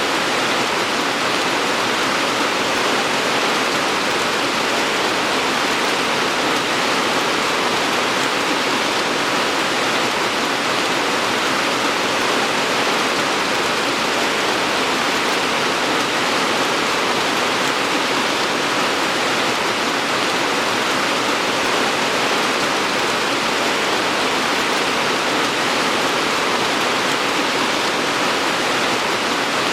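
Steady rain, an even hiss of falling rain without breaks or single drops standing out.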